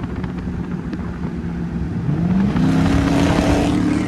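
Straight-piped exhaust of a 2012 Dodge Charger R/T's 5.7-litre HEMI V8 under way, running steadily and then, about halfway in, opening up under acceleration: louder, with the pitch rising, before easing off near the end.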